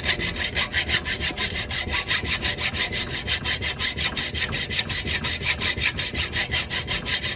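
Rapid back-and-forth rasping strokes, about five a second and very even, of a broken lug stud being cut or filed away at the wheel hub.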